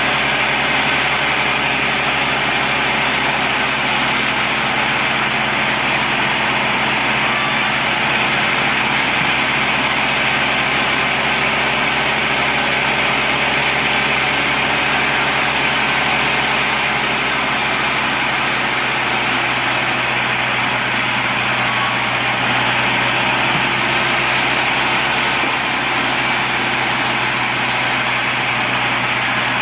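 Sawmill bandsaw running steadily, a loud continuous machine noise with a steady hum and a dense hiss, unchanged throughout.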